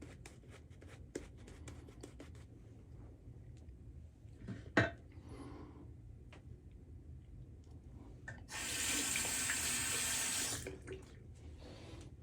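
Straight razor scraping through stubble in short, faint strokes, with a single knock about five seconds in. Near the end, a water tap runs for about two seconds.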